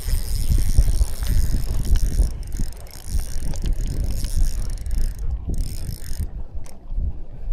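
Movement noise aboard a pedal-drive kayak: an uneven low rumbling with many small clicks and knocks, easing a little near the end.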